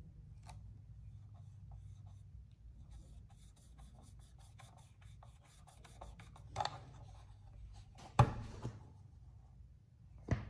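Hands handling and pressing together the pressed-steel body pieces of a vintage Tonka toy patrol car: light rubbing and a run of rapid small clicks, then three sharp knocks, the loudest about eight seconds in. A low steady hum underneath.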